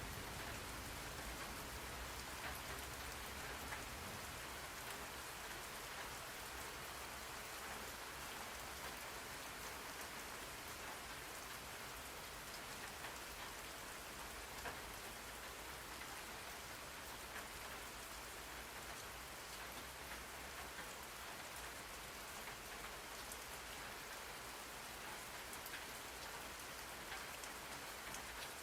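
Steady rain on a surface, an even hiss of rain with the patter of individual drops.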